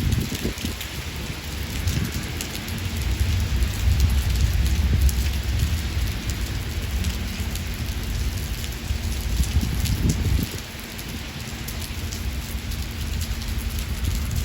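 Heavy rain pattering steadily, with a deep rumble of thunder rolling underneath that dies away about ten seconds in.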